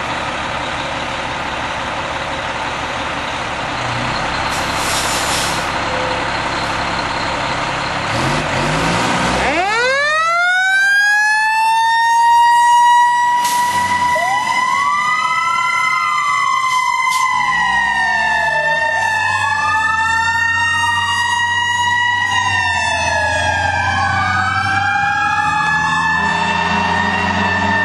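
Fire engine running, then its mechanical siren winds up about nine seconds in and holds a steady high wail. From about fourteen seconds an electronic siren joins it, sweeping up and down over and over.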